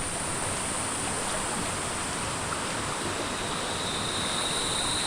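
Creek water rushing over rocks in a steady, even rush, with a steady high-pitched insect drone above it.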